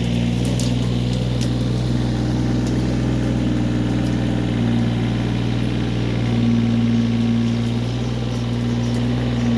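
Kioti CK20 compact tractor's diesel engine running steadily while the backhoe is worked, with a higher hum that swells twice in the second half.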